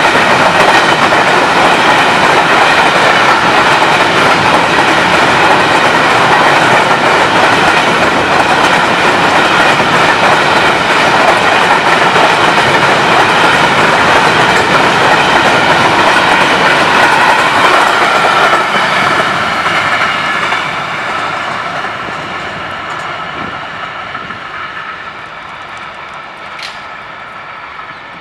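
Loaded container flat cars of a freight train rolling past at speed, a loud rumble with a high ringing tone over it. About two-thirds of the way through it begins to fade steadily as the end of the train passes and moves away.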